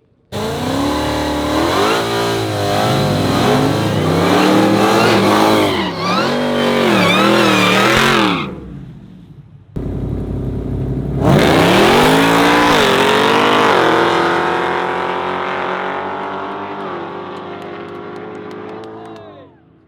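Car engine accelerating hard in two separate runs, its pitch climbing and dropping again and again as it revs. The second run starts with a steep climb in pitch and fades away over its last several seconds as the car pulls off.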